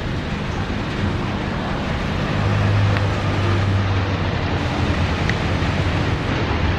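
Steady rushing noise of an aircraft with wind on the microphone, a low hum growing louder about two seconds in.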